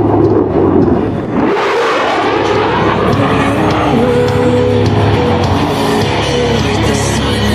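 F-16 fighter jet's afterburning turbofan engine making a loud, rushing pass overhead, swelling about a second and a half in. Air show loudspeaker music plays under it.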